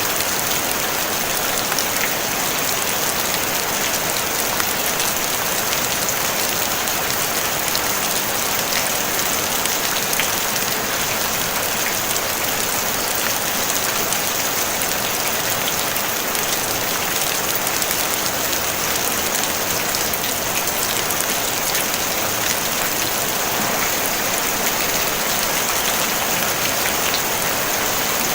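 Steady rain on a tin roof: a dense, even hiss of drops with fine individual ticks, no thunder.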